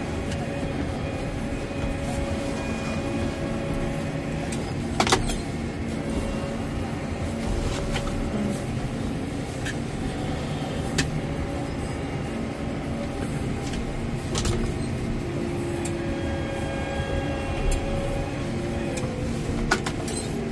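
Tractor engine running steadily while handling bales, its pitch shifting slightly as it works, with a few sharp clicks or knocks along the way.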